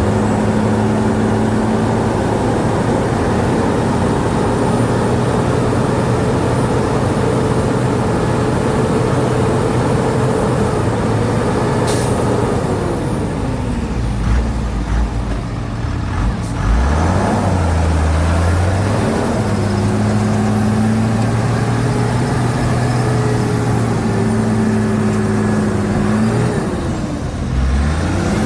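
Heavy diesel engine of earthmoving machinery running, its pitch dropping about twelve seconds in and climbing back a few seconds later, with short dips again near the end. A single sharp click comes about twelve seconds in.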